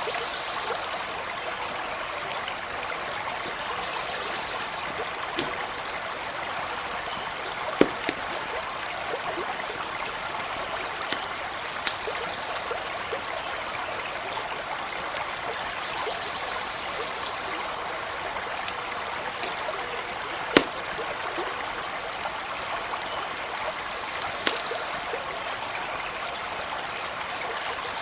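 Stream running steadily, with a few sharp pops from a crackling campfire scattered through it, the two loudest about a third of the way in and about three quarters through.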